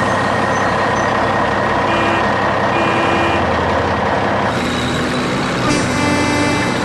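Truck engine running steadily, with short tooting tones about two and three seconds in and a longer pitched tone from about five seconds in.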